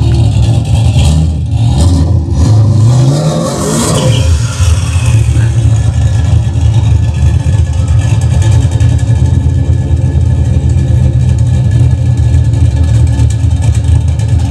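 Very loud Mazda RX-7 with a swapped-in Chevy 350 V8, its block cracked and patched with JB Weld, revved with rising pitch a couple of times in the first few seconds, then running steadily.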